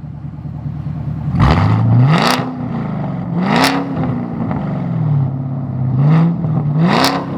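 Chevrolet Camaro SS V8 on a straight-piped exhaust (muffler deleted, secondary cats cut off), idling and then revved three times. Each rev climbs quickly and drops back to idle, with a harsh rasp at the top.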